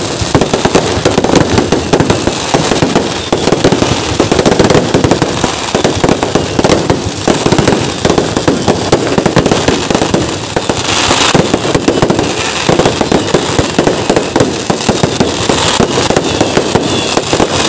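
Fireworks display (Kerala vedikkettu): a dense, unbroken barrage of firecracker bangs going off many times a second, with a burst of higher, sharper crackling about eleven seconds in.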